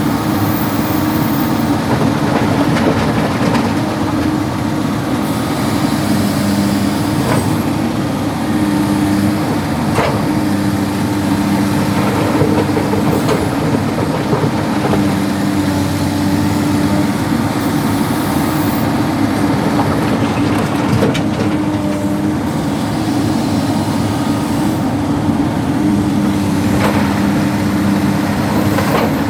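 Excavator's heavy diesel engine running steadily under hydraulic work, with a few sharp knocks scattered through.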